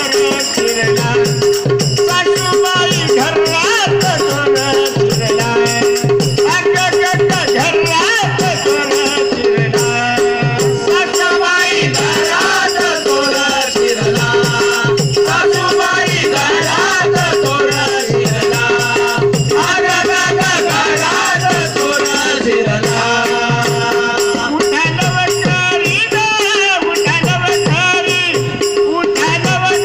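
Marathi devotional bhajan: voices singing over a held drone note, with fast, continuous jingling of hand cymbals and steady drum strokes.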